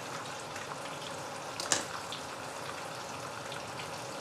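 Oil sizzling steadily in a frying pan, with faint crackles and one sharp click about a second and a half in.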